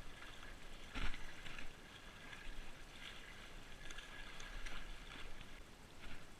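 Faint water sloshing and splashing, with a soft knock about a second in.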